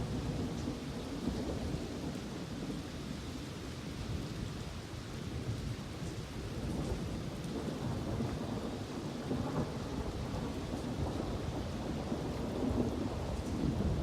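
Thunder rumbling low and continuously, rising and falling in waves, over the hiss of rain.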